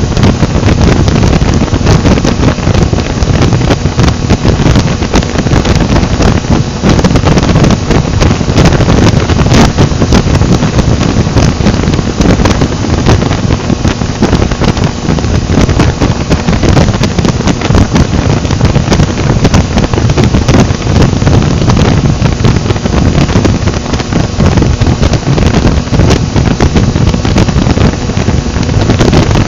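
Heavy wind noise buffeting the microphone on a motorcycle at speed: a loud, steady rush with no break.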